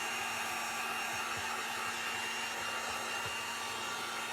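Handheld electric dryer blowing steadily with a constant whine, drying freshly wiped-on paint stain on a wooden craft piece.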